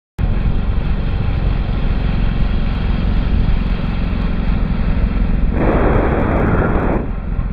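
Motorcycle engine running steadily under way, starting abruptly, with a louder rushing noise over it for about a second and a half near the end.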